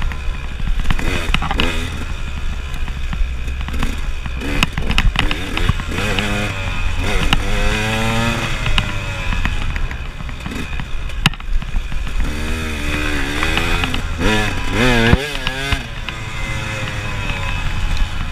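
KTM enduro motorcycle engine, heard from the rider's seat, revving up and falling back again and again as the throttle is worked along a dirt trail. Scattered sharp knocks sound over a steady low rumble.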